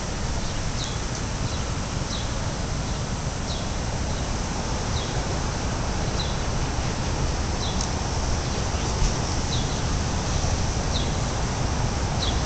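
Steady outdoor street background noise with a low rumble, and a small bird chirping repeatedly: a short, high, falling chirp about once a second.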